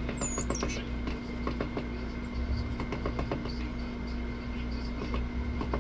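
Steady low mechanical hum with a constant tone underneath. A short, high bird chirp comes just after the start, and small clicks and taps are scattered throughout.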